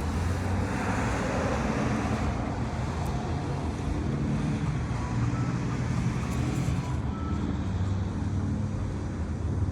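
Steady low rumble of vehicle road noise.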